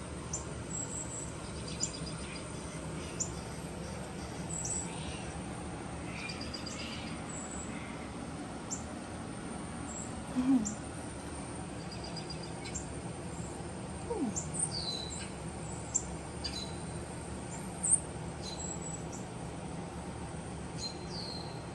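Faint, short high-pitched bird chirps scattered throughout, over a steady low background hum.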